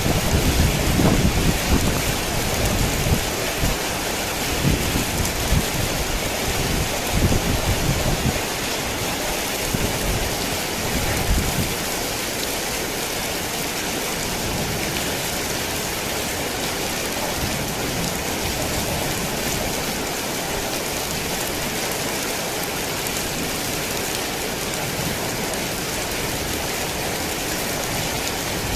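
Heavy rain falling in a steady hiss. Irregular low rumbling comes and goes through the first dozen seconds, then only the rain remains.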